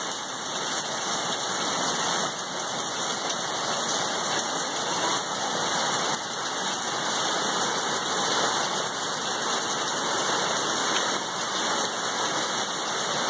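Steady rain falling, as a hailstorm eases off into plain rain.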